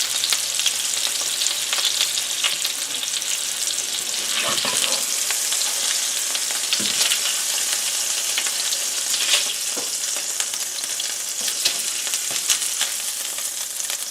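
Ground-beef Salisbury steak patties frying in olive oil in a hot pan: a steady sizzle with many small crackling pops. A few louder knocks stand out, about four and a half, seven and nine seconds in.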